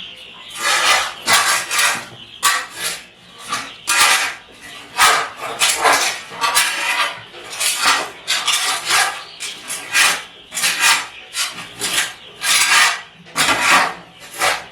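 Rough scraping strokes on the floor of a chicken house being cleaned out, about two a second in an uneven rhythm.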